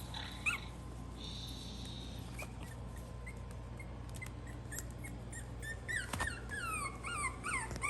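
Young Maltese puppies whimpering in short, high-pitched squeaky cries: a few scattered early on, then a quick run of them over the last two seconds.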